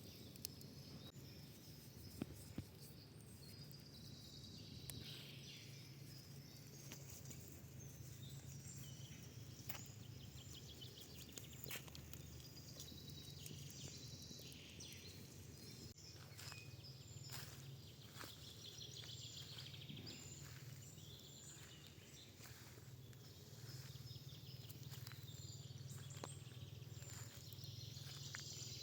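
Faint outdoor ambience: birds chirping high and repeatedly, with scattered small clicks and a steady low hum underneath.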